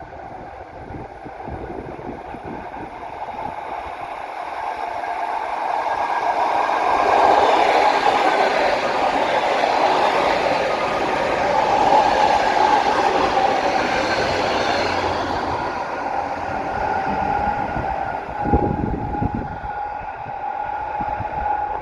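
EP2DM electric multiple unit passing through a station: the rail and wheel noise swells to a peak about a third of the way in, then eases off, with a steady whine above it. A short thump comes near the end.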